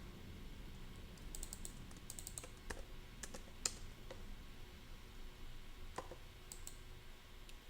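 Faint computer keyboard typing: a quick run of keystrokes between about one and two and a half seconds in, then single clicks spread out over the rest.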